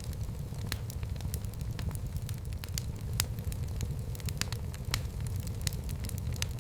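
Fire burning in a fireplace, crackling with irregular sharp pops and snaps over a low steady rumble.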